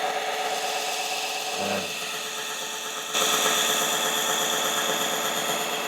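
Mini electric belt sander running steadily, its motor and belt giving a continuous hum and whine. About three seconds in, it turns suddenly louder and brighter.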